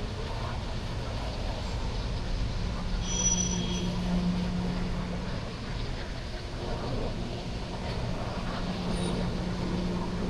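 CSX freight train rolling by with a steady low rumble, a low hum swelling twice, and a brief faint high squeal about three seconds in.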